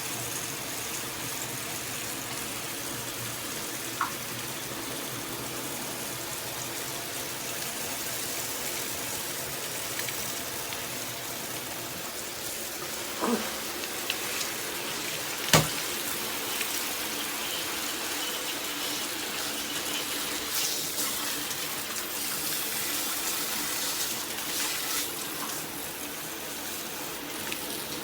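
Water spraying steadily from a filtered high-pressure shower head, an even hiss, broken by a few sharp knocks, the loudest about halfway through.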